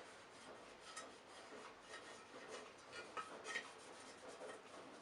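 Faint rubbing and scraping with a few light clicks, from hand work on parts of a Hoover Senior upright vacuum cleaner.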